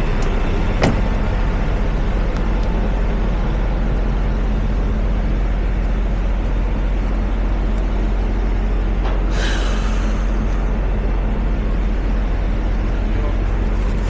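Semi truck's diesel engine running steadily as the truck pulls out, with a sharp click about a second in and a short hiss about nine seconds in.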